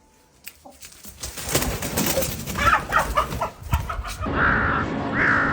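A crow calling: a quick run of short clucking notes, then two harsh caws about half a second each near the end.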